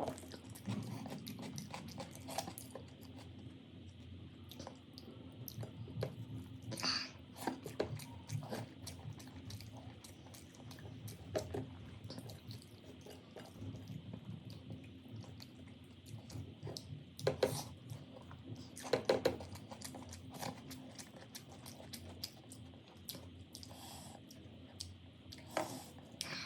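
A person chewing food close to the microphone: wet mouth sounds with many small clicks, and a few louder bites about seven seconds in and again around seventeen to nineteen seconds in.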